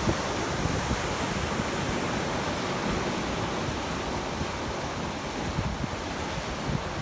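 Ocean surf breaking and washing in as a steady rush, with wind buffeting the microphone.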